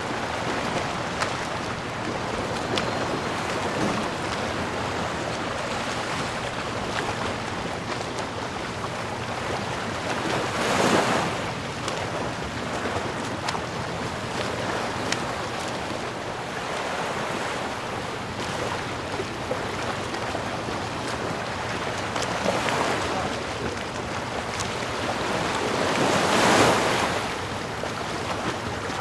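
Ocean surf: a steady wash of waves, with two louder waves breaking, one about a third of the way in and one near the end.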